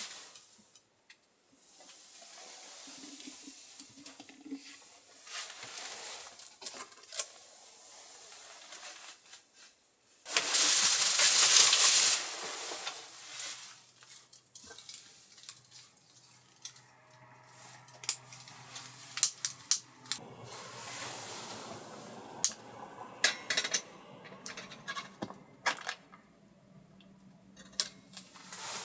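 Kitchen handling sounds: scattered clinks and taps of pots, dishes and utensils, with a loud rushing hiss lasting about two seconds near the middle.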